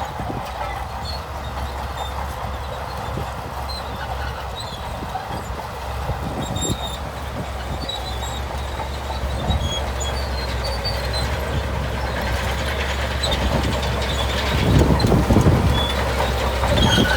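Shantui bulldozer's diesel engine running steadily with its steel tracks clattering. The sound grows louder toward the end, with a strong surge about three seconds before the end.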